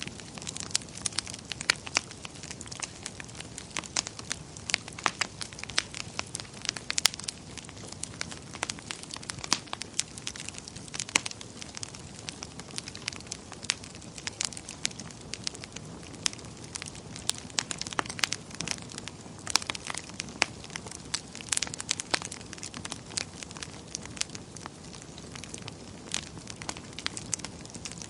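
Wood fire crackling in a fireplace: a soft steady rush of burning with irregular sharp pops and snaps, several each second.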